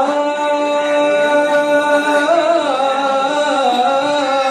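A man's voice singing a long held note in a mawwal, drawn out on one vowel with slow ornamental turns in pitch.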